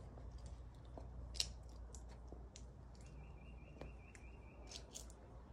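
Faint garden ambience: small birds chirping, with a wavering high trill lasting about a second and a half around the middle, over scattered sharp crisp ticks and a low rumble.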